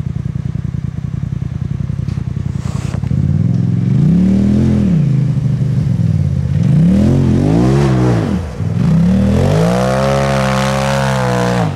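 Polaris RZR Turbo S engine idling with a rapid pulsing, then revving up and back down, twice briefly and a third time held high for about two seconds before dropping off near the end.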